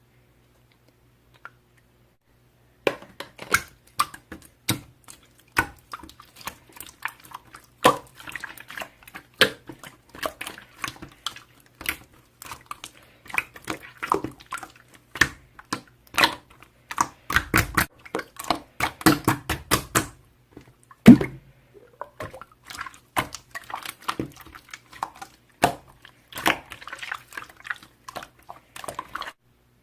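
Slime being squeezed and kneaded by hand, making a dense, irregular run of sticky clicks and crackles that starts about three seconds in.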